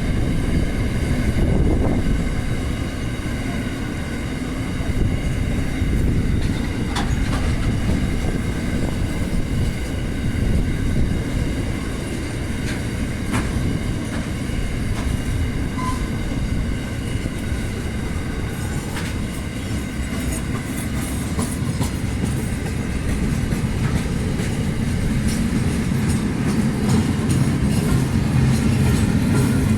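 A train rolling steadily past, its wagons' wheels rumbling on the rails, with a few sharp clicks over the rail joints.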